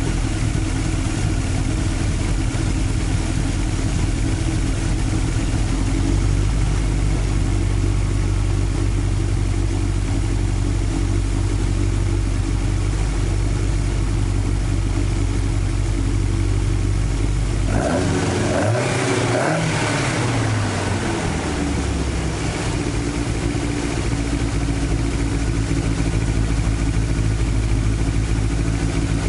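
Toyota 5-valve 4A-G four-cylinder engine on twin carburettors idling while the carburettor throttle butterflies are adjusted, the idle note shifting about six seconds in. About two-thirds through it is blipped once, revving up and dropping back to idle within about four seconds.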